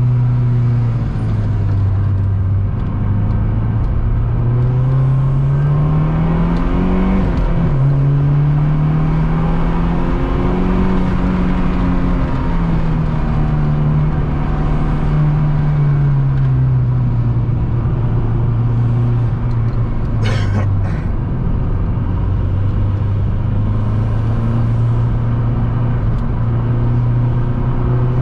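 Mazdaspeed 3's turbocharged 2.3-litre four-cylinder at full throttle on track. It climbs in pitch, drops sharply at an upshift about seven seconds in, climbs again, falls away as the car slows, then holds a steady lower note. A brief hiss comes about twenty seconds in.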